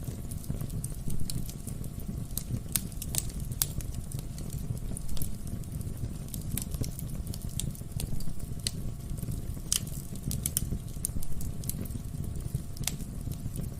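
Wood fire crackling in a fireplace: a steady low rumble of burning logs with irregular sharp pops and snaps, a few of them louder, about a second in and again around the middle and later.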